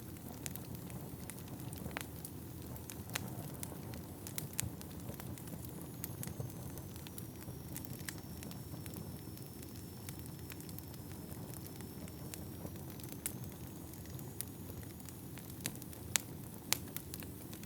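Wood fire burning in an indoor fireplace: a steady low rumble of flames with frequent sharp, irregular crackles and pops from the burning logs. A faint thin high whistle runs for several seconds in the middle.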